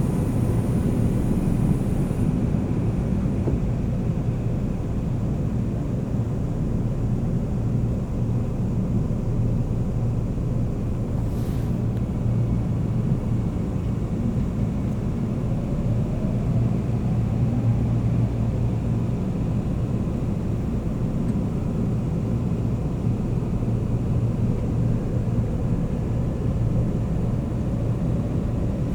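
Seoul Metro Line 9 subway train running on the tracks after pulling out of the station: a steady low rumble, with a brief high hiss at the start and a faint rising motor whine about halfway through.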